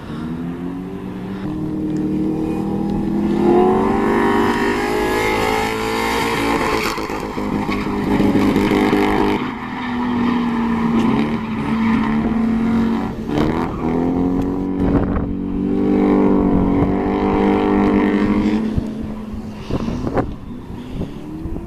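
Car engine running hard at high revs, its pitch climbing and dropping several times as the throttle is worked on and off.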